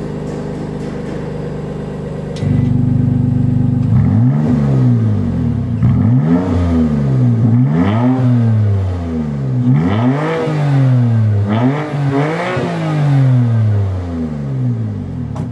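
BMW M2 CS twin-turbo straight-six breathing through an Akrapovic Slip-On Line exhaust: it idles, the idle steps louder about two and a half seconds in, then the engine is blipped about seven times, each rev rising and falling back.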